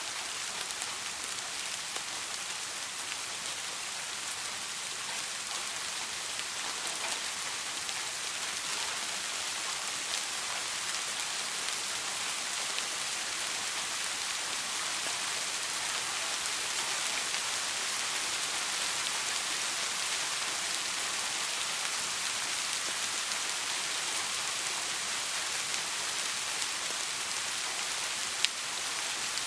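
Steady soft rain falling on a surface, an even hiss with many small drop patters and one sharper drip tick near the end.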